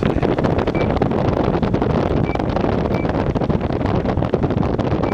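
General Electric 12,000 BTU window air conditioner running, its fan blowing air in a steady rush.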